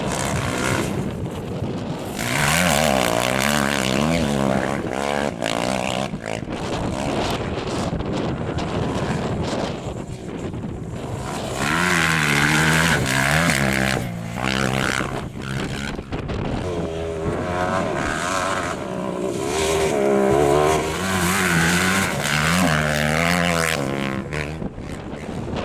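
Racing engine of a competitor on a dirt rally stage, revving hard in repeated rising sweeps as it climbs through the gears, swelling loudest twice mid-way.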